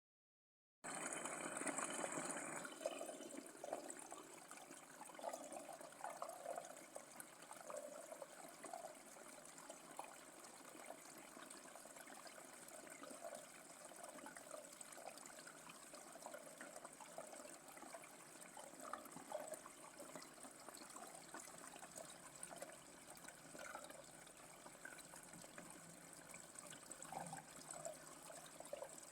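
Small waterfall splashing and trickling in a faint, steady flow, a little louder for the first couple of seconds after it starts. A thin, steady high tone runs faintly underneath.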